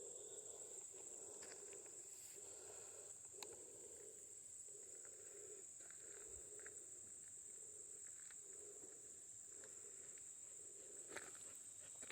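Faint woodland ambience: insects keep up a steady high-pitched drone, with soft low sounds repeating about once a second and a few faint clicks.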